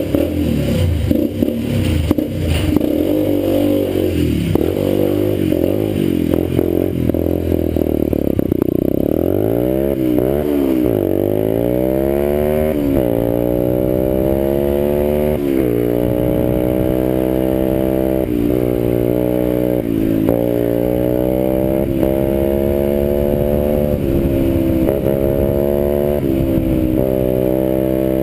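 Orion 125cc dirt bike engine on a cold start. It runs rough and uneven with some clatter for the first several seconds, revs up and down a few times around ten seconds in, then settles into a steady idle with a few brief dips.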